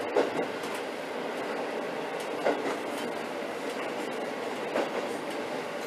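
Diesel railcar on single-track rail heard from inside the front of the car: a steady running rumble, with three sharp wheel clacks over rail joints about two seconds apart.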